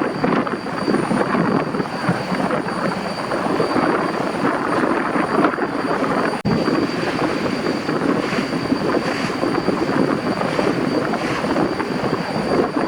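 Loud, steady rushing noise of a boat under way, with a brief break about six and a half seconds in.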